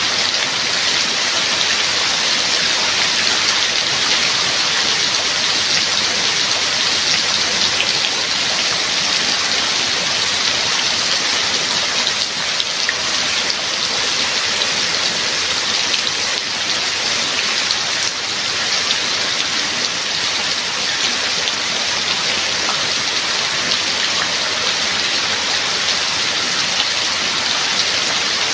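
Steady heavy rain, a dense even hiss of falling water with faint scattered drop patter.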